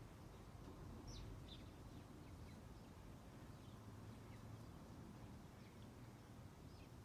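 Near silence: quiet outdoor background with a few faint, short, high-pitched bird chirps scattered through.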